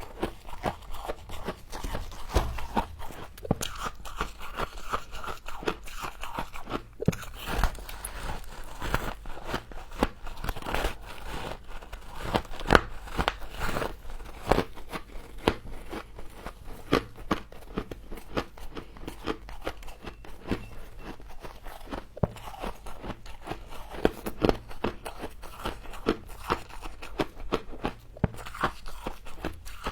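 Humidifier frost being bitten and chewed close to the microphone: dense, irregular crunches and crackles.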